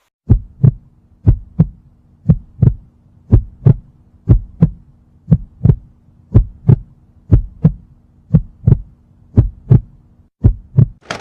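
Heartbeat sound effect: a steady lub-dub of low paired thumps, about one beat a second, over a faint hum. A sharp sound cuts in at the very end.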